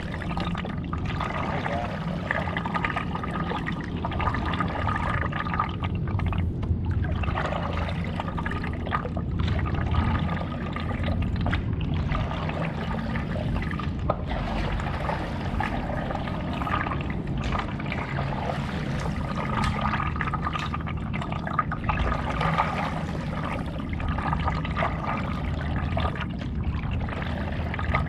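Stand-up paddle strokes in lake water: the blade dipping and pulling through the water again and again, with water pouring and trickling off it between strokes.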